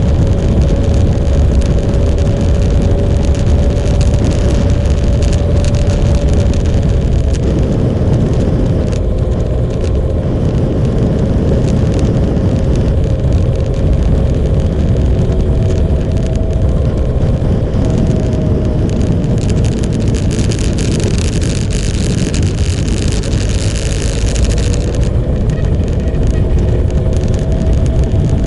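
Motorcycle riding at a steady cruise: the engine holds a fairly even pitch that drifts slightly up and down, under a dense rumble of road and wind noise. A brighter hiss rises for a few seconds about two-thirds of the way through.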